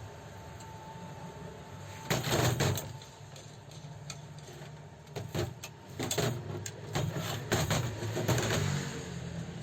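A cluster of sharp knocks and clatters about two seconds in, then a run of separate knocks from halfway to near the end, over a steady low hum.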